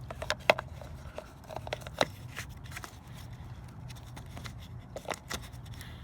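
Scattered sharp plastic clicks and small knocks as a brake fluid reservoir cap is screwed back on. The cap has a locking ratchet that clicks as it is turned.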